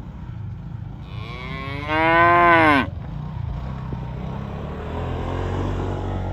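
A cow mooing once: a loud call of about two seconds that drops in pitch as it ends, over a steady low rumble.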